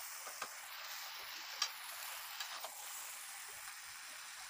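Chicken pieces frying in oil in a steel kadai, a faint steady sizzle, with a few light clicks of a spatula against the pan.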